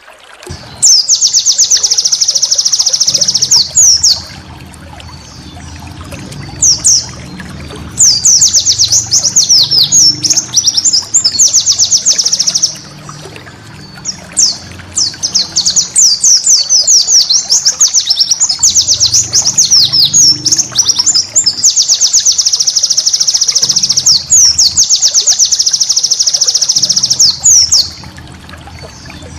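White-eye (pleci) singing loud, long bursts of rapid, high-pitched chattering notes, several seconds at a time with short pauses between, over a faint low steady rumble.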